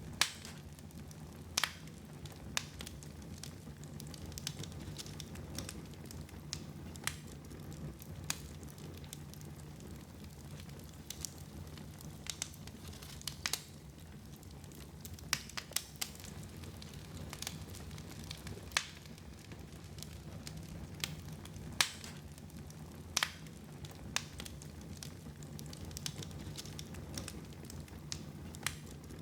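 Wood fire crackling in a fireplace: irregular sharp pops, a few each second at most, over a steady low rumble of burning.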